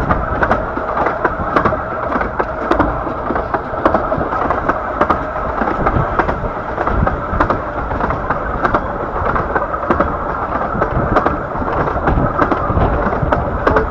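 Bure Valley Railway's 15-inch-gauge train running along the line, heard from a carriage: a loud, steady rumble of wheels on track with many short clicks and knocks.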